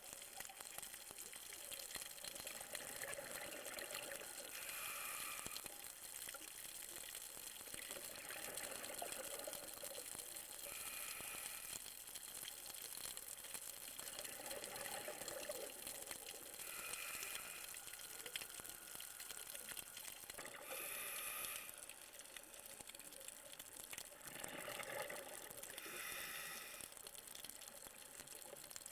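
Scuba diver breathing underwater through a regulator: a short hissing inhale followed by a longer burble of exhaled bubbles, repeating about every six seconds.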